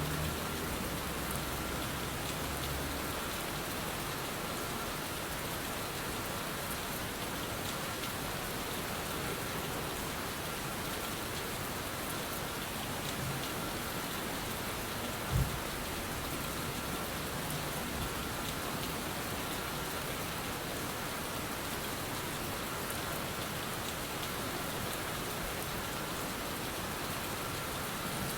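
Steady rain used as a background track, an even patter, with a single short knock about halfway through.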